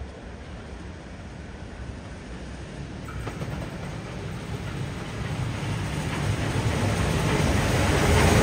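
Train approaching, its noise growing steadily louder: the Garratt 6029 steam transfer train coming into the station.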